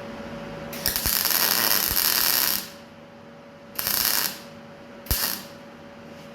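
MIG welder laying three bursts of weld on thin car body sheet metal, crackling: a long run of nearly two seconds about a second in, then two short tacks, over a steady workshop hum.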